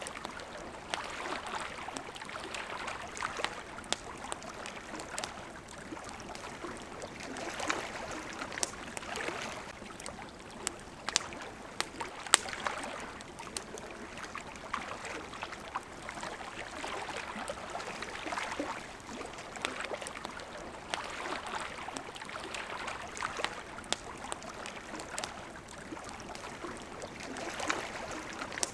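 Water washing in gentle swells, with the sharp pops and crackles of a burning wood campfire scattered throughout.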